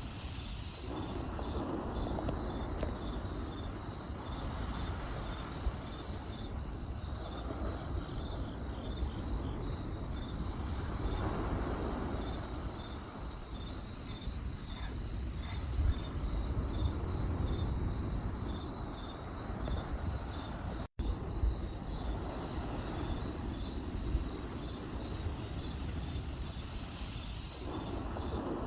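Crickets chirping in a steady, fast pulse over a campfire's rushing, crackling burn that swells and fades every few seconds, with a few sharp pops. The sound cuts out for an instant about two-thirds of the way through.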